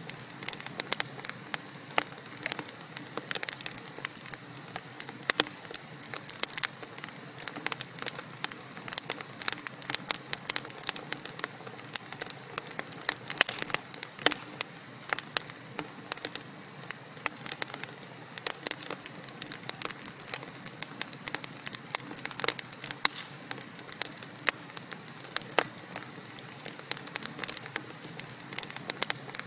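Wood fire burning in a fireplace: logs crackling with many sharp, irregular pops and snaps over a steady soft hiss.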